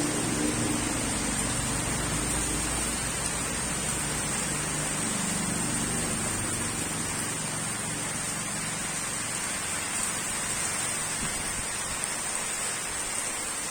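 Steady rain falling on a pond, an even hiss with no breaks. A faint low hum sits under it for the first half and then fades.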